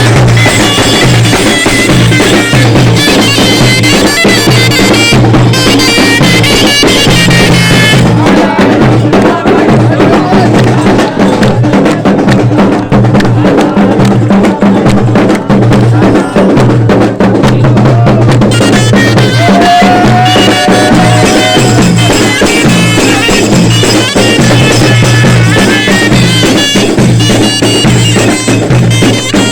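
Zaffa troupe music: bagpipes playing a folk melody over a steady low drone, with drums beating.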